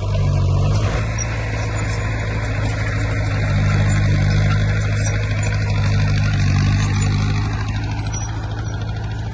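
Heavy diesel engine of earthmoving machinery (bulldozer or dump truck) running under work, a steady low drone that grows louder for a few seconds in the middle.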